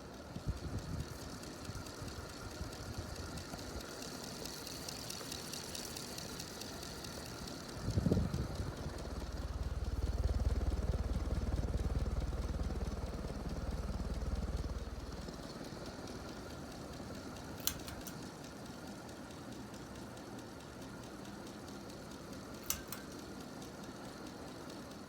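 1987 SMC Laguna ceiling fan running, its spinner motor scraping and grinding throughout: a fault in the motor that cannot be avoided. A low rumble swells in the middle for several seconds, after a thump, and two sharp clicks come near the end.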